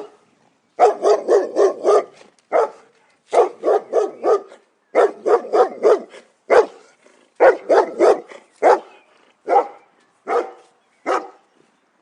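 Dog barking in quick runs of four to six barks, several barks a second, then slower single barks spaced about a second apart near the end.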